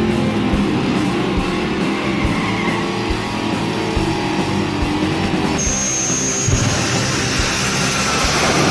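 Twin-turbo LS V8 engine running and revving, under guitar-driven background music with a steady beat.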